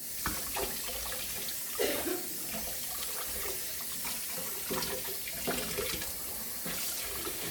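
Kitchen sink tap turned on and running steadily, with a few brief knocks and clinks over the water.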